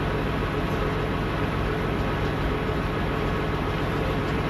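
Steady low drone of an idling engine, even throughout with a constant low hum.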